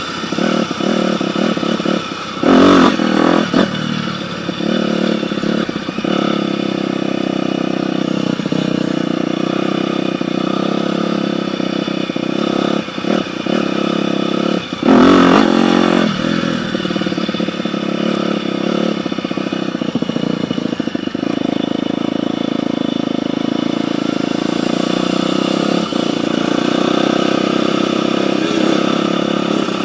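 Dirt bike engine running steadily, with two brief louder surges, about three seconds in and again about fifteen seconds in.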